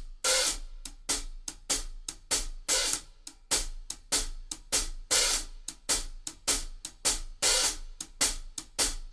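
Drum-kit hi-hat alone playing a shuffle rhythm with the sticks. Once a bar, on the '1e', the hi-hat is opened for a longer, washier stroke, about every two and a half seconds.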